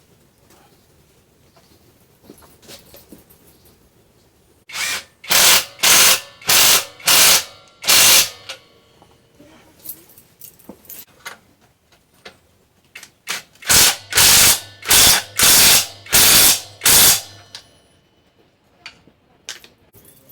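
A tool working in short strokes, about six in quick succession, a pause, then about six more, each stroke a harsh rasp lasting well under a second.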